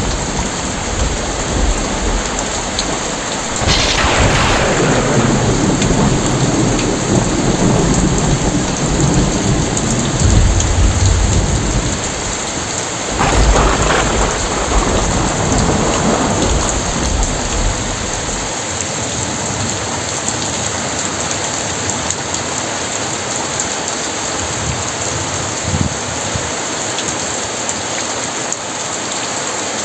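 Heavy rain falling steadily, with two claps of thunder about four and thirteen seconds in. Each is followed by a low rumble that dies away in the second half, leaving only the rain.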